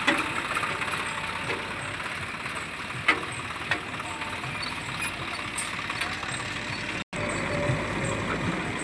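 Heavy diesel machinery engine running steadily, with two sharp knocks a little after three seconds in. The sound drops out for an instant about seven seconds in.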